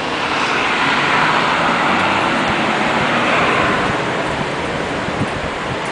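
Hiss of road traffic on wet streets, swelling over the first second and easing off about four seconds in.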